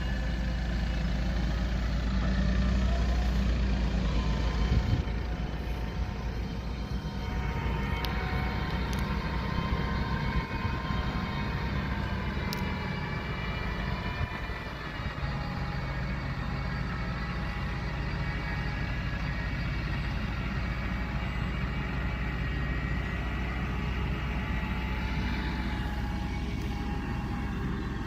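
Motor vehicle engine running, louder for the first five seconds, then steady.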